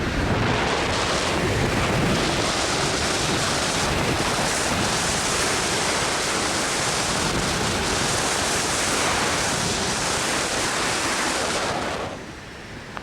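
Strong wind rushing over the microphone during a spinning turn under a tandem parachute, a steady loud roar that falls away sharply about a second before the end as the spin eases off.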